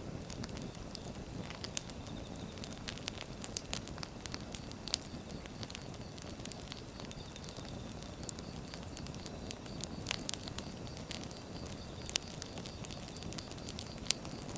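Wood fire burning: a steady low rush of flame with frequent sharp crackles and pops of firewood.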